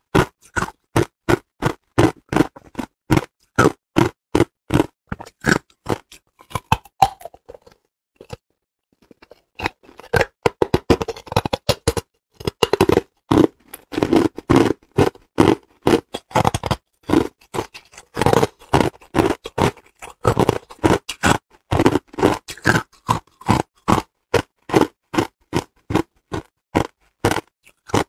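Hard, clear ice being bitten and chewed close to the microphone: a steady run of crunches, about two or three a second, with a short pause about eight seconds in.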